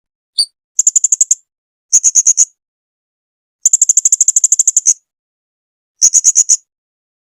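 Blue-crowned hanging parrot (serindit) calling in quick trains of shrill, high-pitched chirps: a single note, then four bursts, the longest lasting over a second just past the middle at about a dozen notes a second.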